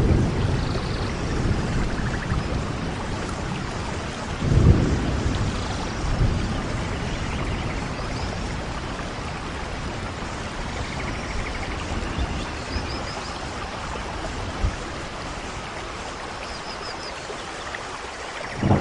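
Steady heavy rain with a low roll of thunder swelling about four and a half seconds in.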